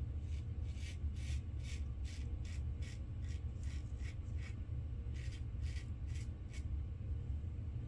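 A razor blade scraping through lathered stubble in quick, short strokes, about three a second, with a brief pause in the middle. A steady low hum runs underneath.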